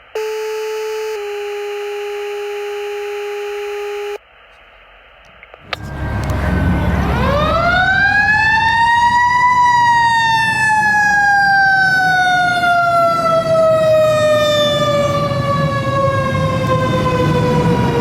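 A steady two-part electronic tone lasts about four seconds: a short higher note, then a longer, slightly lower one. About six seconds in, the fire engine's siren winds up to a high pitch over a few seconds, then slowly falls in pitch, over the low rumble of the truck's engine.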